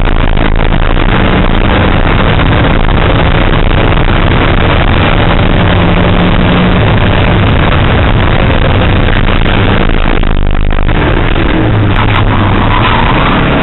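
Car engine driven hard around a race circuit, heard from inside the cabin: loud engine note under wind and road noise. The pitch shifts up and down as the driver changes gear and lifts for corners.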